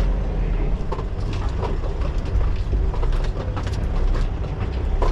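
Semi-truck diesel engine running with a steady low rumble, scattered light clicks and rattles over it.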